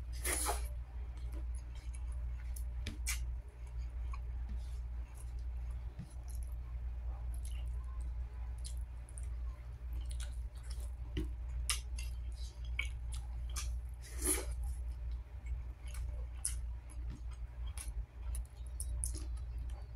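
A person chewing mouthfuls of rice and chicken eaten by hand, with scattered short wet mouth clicks and smacks over a steady low hum.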